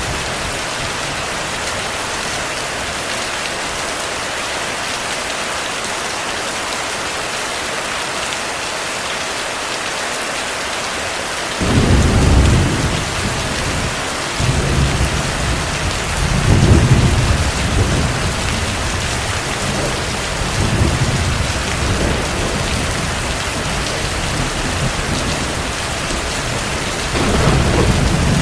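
Heavy rain falling steadily. About twelve seconds in, thunder breaks in suddenly and rumbles on in rolling waves that swell and fade several times.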